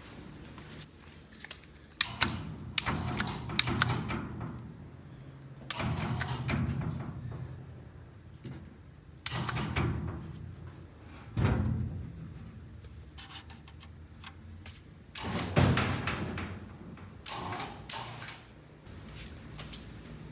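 Scattered metal clunks and knocks, each trailing into a second or so of rattling and scraping, as a VW Beetle body is lowered slowly onto its chassis. A low steady hum runs underneath.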